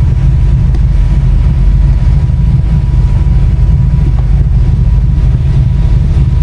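Off-road vehicle's engine running at low speed with a steady low rumble, as the rig crawls slowly over rough trail.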